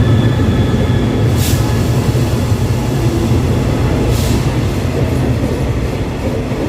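Diesel-hauled passenger train running with a steady, heavy low rumble, and two short hisses of air about a second and a half and four seconds in.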